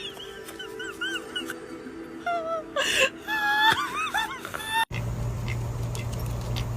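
An animal's short, high whimpering cries, several in a row, each rising and falling in pitch. They break off suddenly about five seconds in and give way to a steady low hum.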